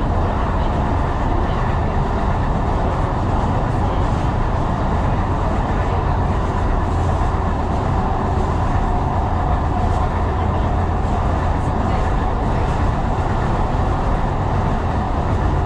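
Tyne & Wear Metro train running along the line, a steady rumble of wheels and running gear heard from inside the train, with faint clicks over the track.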